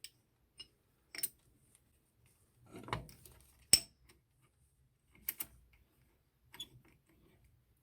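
Scattered light metallic clicks and clinks of steel cap screws being handled and fitted to the vise's replaceable jaws, with one sharp click a little under four seconds in.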